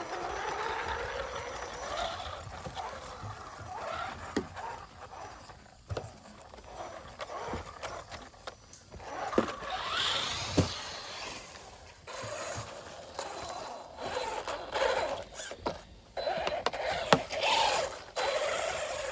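RC racing buggy driving over a dirt trail: its motor whine glides up and down as the throttle is worked, with tyres scrabbling on dirt and several sharp knocks.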